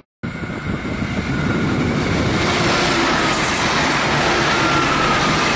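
Passenger train running past a station platform at speed. It sets in just after a short gap and builds over about two seconds into a loud, steady rush of wheel and rail noise, which then holds.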